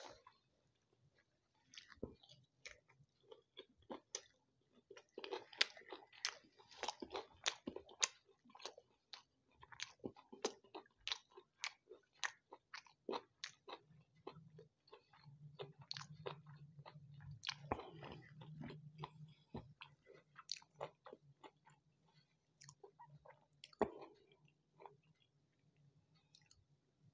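A man chewing food with his mouth close to the microphone: an irregular run of wet mouth clicks, several a second, a few of them louder than the rest.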